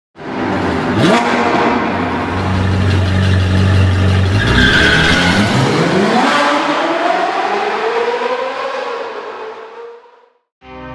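Car engine sound effect: a quick rising rev about a second in, a steady low rumble, then a long rising rev in the second half that fades out just before the end.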